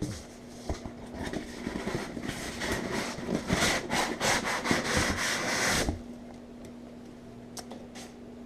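Cardboard packaging being scraped and rustled as the chainsaw is unpacked: a run of rough rubbing strokes that builds over about five seconds and stops abruptly about six seconds in.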